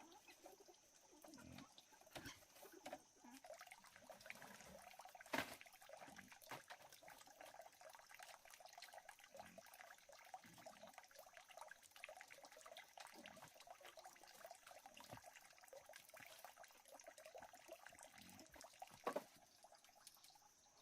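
Faint night ambience: a dense, steady chorus of calling animals with a thin, steady high whine above it. Two sharp clicks, about five seconds in and near the end.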